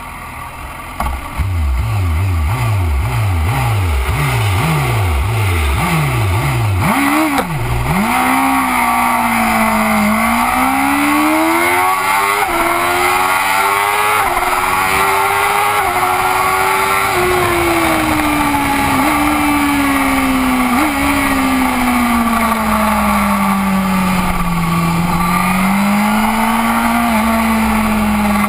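BMW superbike engine launching from a race start: about a second in the revs climb in a run of quick surges, then the engine runs hard at high revs, its pitch rising and falling with gear changes and corners, over heavy wind noise.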